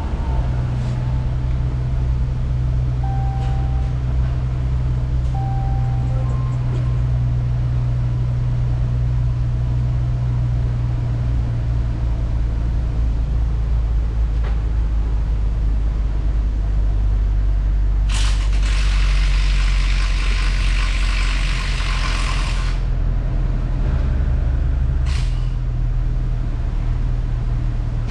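Chrysler 300's 3.6-litre Pentastar V6 running steadily, with a hiss that lasts about five seconds past the middle.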